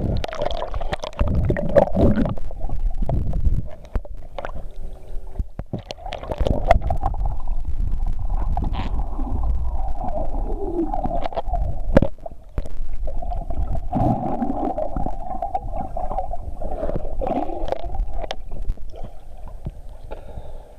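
Water gurgling and sloshing around a small boat under way, over a strong uneven low rumble, with a few sharp knocks, the loudest about 12 seconds in.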